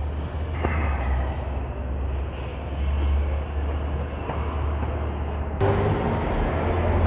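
Street traffic: a steady low vehicle rumble under a constant wash of road noise. About five and a half seconds in, a louder, brighter hiss cuts in suddenly.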